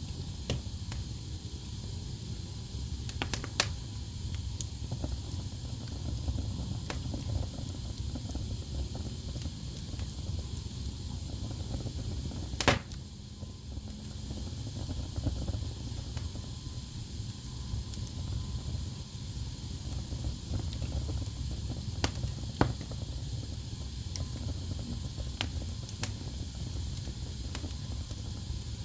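Wood fire burning in a fireplace: a steady low rumble and hiss with scattered crackles. A sharp pop about twelve seconds in is the loudest, and smaller pops come at about three and a half and twenty-two seconds.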